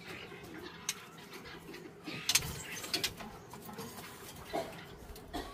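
Birds calling in the background, with a few sharp clicks, the loudest about two and a half and three seconds in.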